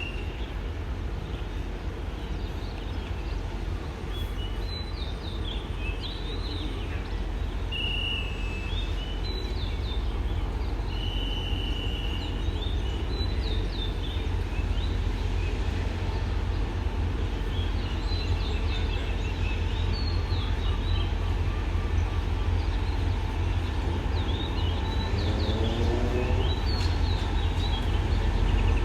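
Low rumble of a railway diesel locomotive, growing slowly louder, with small birds chirping and whistling throughout. Near the end, a rising engine note.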